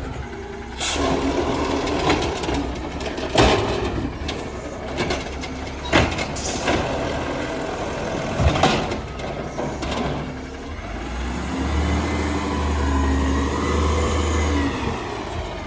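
Battle Motors Amrep garbage truck at work, its engine and hydraulics running. Several sharp bangs and clatters come through the first nine seconds or so. After that a steadier low hum takes over, with a whine that rises and falls.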